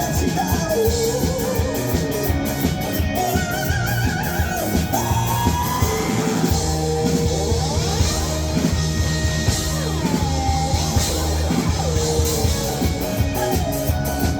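Live rock band playing: electric guitars and drums keep a steady beat, with a voice singing gliding wordless lines over the band.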